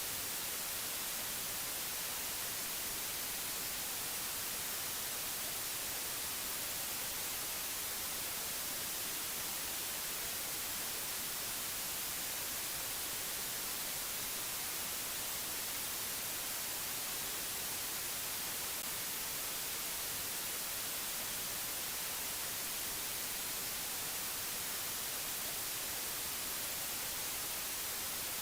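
Steady white-noise hiss, bright and even, with no change or break.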